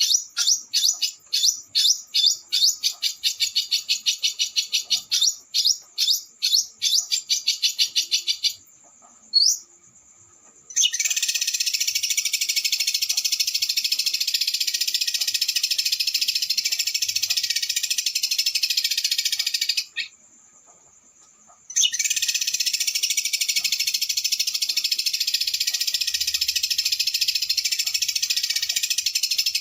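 A small songbird's rapid, rattling high trills: a run of short repeated chattering phrases, one rising whistle about nine seconds in, then long unbroken trills with a pause of about two seconds near the middle.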